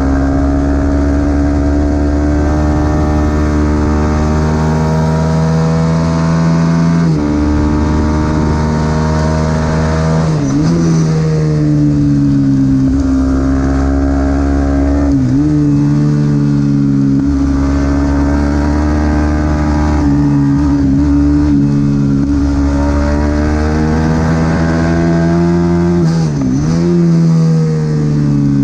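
Supersport 300 race motorcycle engine at high revs, pitch climbing through the gears and dropping sharply at gear changes. It dips hard and briefly about ten seconds in and again near the end.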